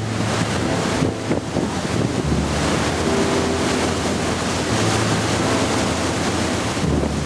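Wind buffeting the microphone over a steady rush of water, with a low hum that comes and goes.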